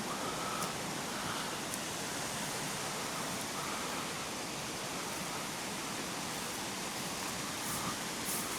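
Steady rush of flowing creek water, an even hiss with a few faint ticks over it.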